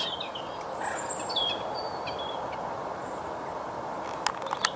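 Outdoor lakeside ambience: small birds give short high chirps over a steady background hiss, with a few sharp clicks near the end.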